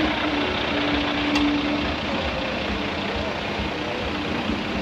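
Heavy diesel truck engine idling steadily, with a faint steady hum among a wash of noise.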